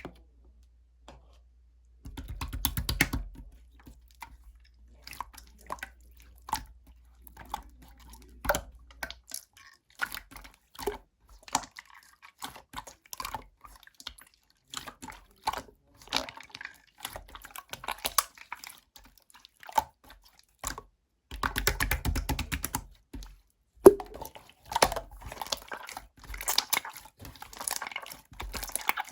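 Clear slime being squished and pressed by hand: a run of irregular wet clicks and squelches, with two denser stretches of rapid clicking, one about two seconds in and one past the two-thirds mark.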